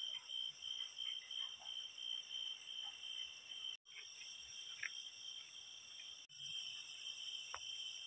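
Crickets chirring steadily at night, a constant high-pitched trill with a few faint ticks over it; the sound drops out briefly twice.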